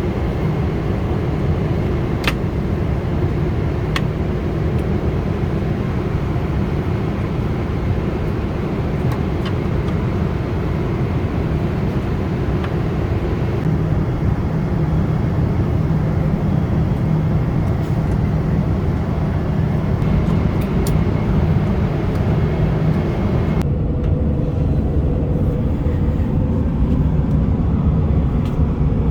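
Steady rushing cabin noise with a low hum inside a Boeing 777-200ER airliner. A couple of faint clicks come in the first few seconds. The sound changes abruptly twice, about halfway through and again near the end, where it turns duller.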